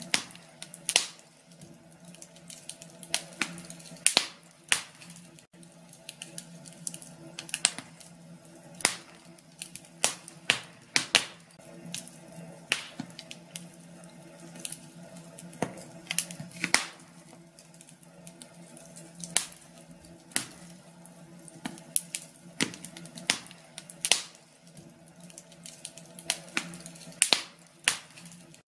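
Wood fire crackling in a fireplace: irregular sharp pops and snaps at uneven intervals, some in quick clusters, over a low steady hum.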